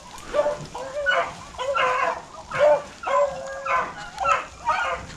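A pack of rabbit dogs barking and baying in repeated overlapping calls, about two a second, as they work a rabbit holed up in a briar thicket.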